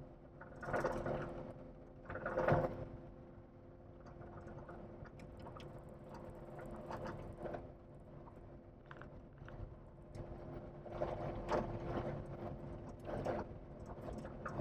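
Vehicle engine running at a steady pitch while moving slowly over a gravel driveway, with louder bursts of rattling and crunching now and then.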